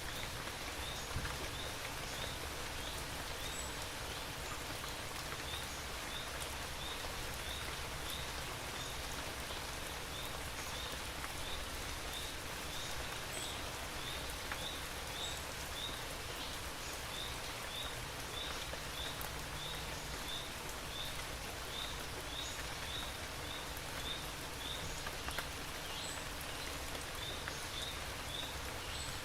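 Steady rain falling, an even hiss of drops, with a short high chirp repeating about once or twice a second over it.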